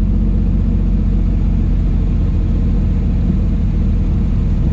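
Turbocharged LS6 V8 of a Porsche 914 running steadily as the car drives, heard from inside the cabin as a low, even engine note.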